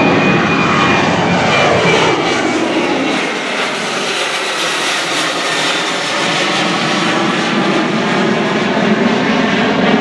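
Jet engines of a departing Southwest Airlines Boeing 737 passing close on its takeoff climb: a loud, steady jet roar with tones that fall in pitch over the first few seconds as it goes by.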